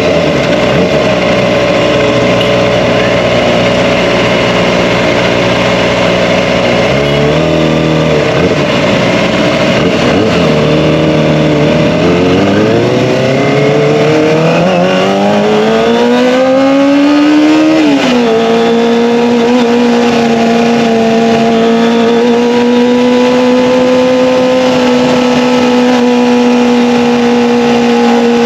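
Kawasaki ZX-25R inline-four on an Akrapovic Evolution exhaust under way: the engine note holds steady, dips about a quarter of the way in, then climbs steadily through the middle and falls sharply about two-thirds through, as on an upshift, before holding steady again.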